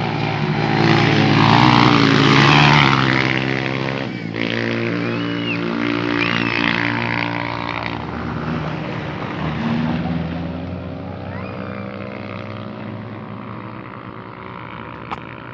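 Motocross motorcycle engines running at race speed, rising and falling in pitch as the bikes change gear. The sound is loudest about two to three seconds in, when a bike passes close, then fades as the bikes move away.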